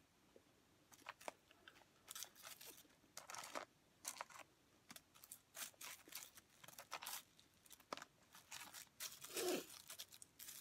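Close-up eating sounds: French fries being chewed in short crunchy bites, with a paper wrapper crinkling as fingers pick fries from it.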